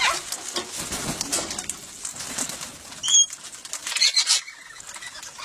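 Parrots squawking: one short, sharp, high call about three seconds in, then a quick cluster of calls a second later, with faint rustling and clicking between them.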